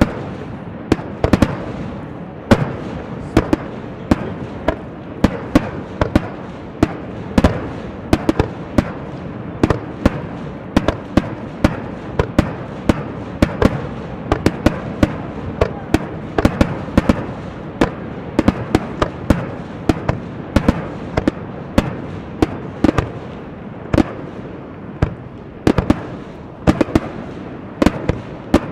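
Rapid-fire aerial fireworks barrage: shells bursting in quick succession, about two or three sharp bangs a second over a steady crackling din of launches and bursts.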